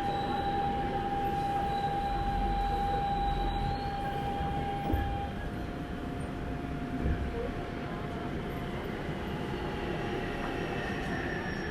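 Daegu Metro Line 1 subway train running, heard from inside the car: steady rumble and hiss of the wheels on the track with a thin electric whine that drops a step in pitch about halfway through, and a couple of soft knocks from the track.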